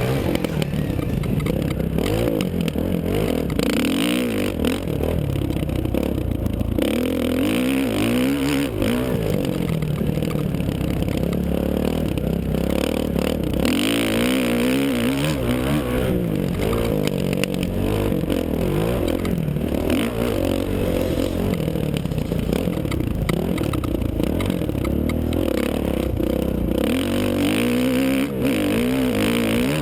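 Dirt bike engine revving up and down continuously as it is ridden, its pitch rising and falling every second or two, over a steady rushing noise.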